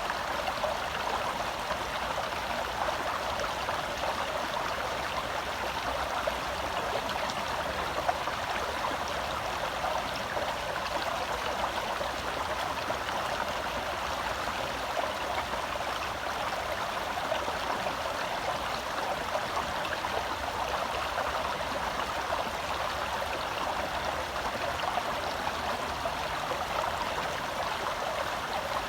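Shallow forest stream flowing and babbling steadily over rocks.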